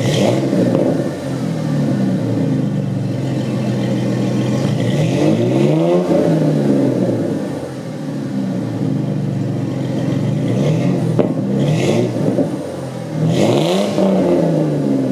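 2004 Ford Mustang 3.9-litre V6 running through a true dual exhaust with Thrush welded mufflers and no rear catalytic converters. It holds a steady idle and is revved up and back down twice, about five seconds in and again near the end.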